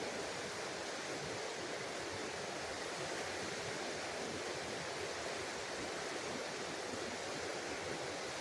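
Steady rushing of water in a small clear forest stream, an even hiss with no breaks.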